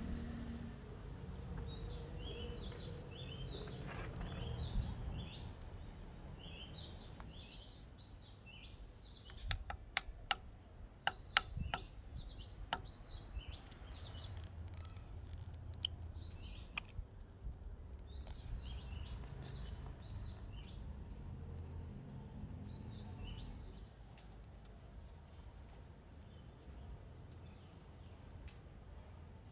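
Small birds chirping in quick, repeated short calls over a low background rumble, with a short run of sharp taps about a third of the way through.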